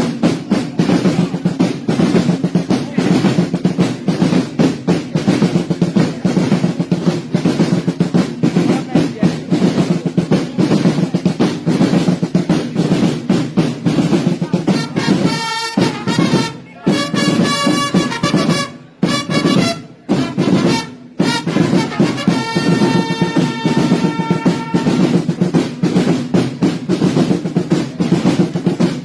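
Massed snare drums rolling continuously, the drumming of the Sartiglia's drum-and-trumpet corps. Between about halfway and two-thirds through, trumpet calls sound over the drums, which break off briefly three times.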